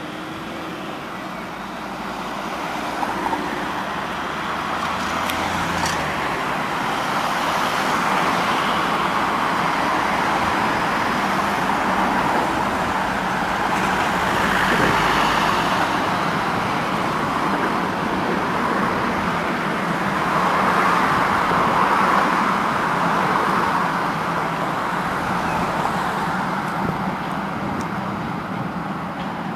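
A tram running along street track: steady wheel and motor noise that swells and eases for about half a minute, mixed with road traffic.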